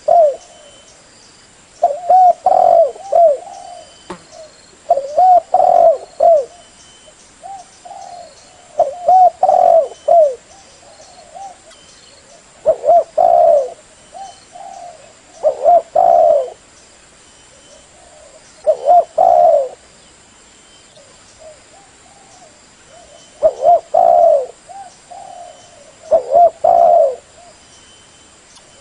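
Spotted dove cooing: short multi-note coo phrases repeated about every three seconds, eight or so in a row.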